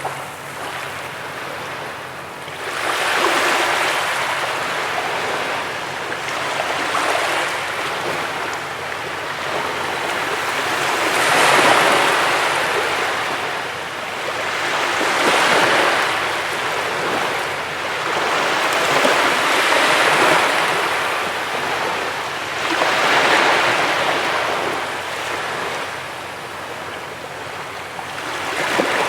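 Sea waves breaking and washing on a beach, a rushing surge that swells and falls back every three to four seconds.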